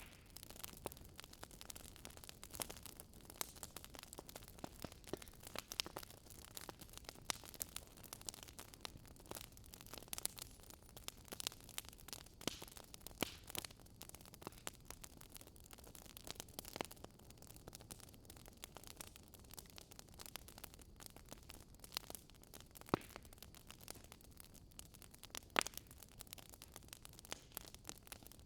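Campfire crackling: wood burning with irregular sharp pops and snaps over a soft low hiss, a few louder snaps scattered through.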